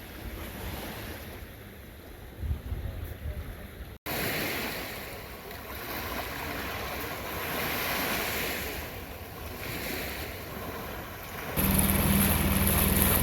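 Waves washing in with swells every few seconds, and wind on the microphone. Near the end a louder steady low hum with heavy wind hiss cuts in.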